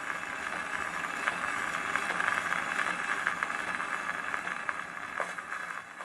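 Surface noise of an old disc recording: a steady hiss with scattered crackles and clicks, easing off near the end.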